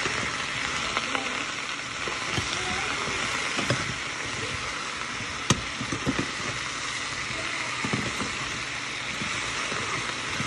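Sliced zucchini and yellow squash sizzling steadily in a frying pan. A spatula scrapes and knocks against the pan now and then as the slices are stirred, with one sharp click about five and a half seconds in.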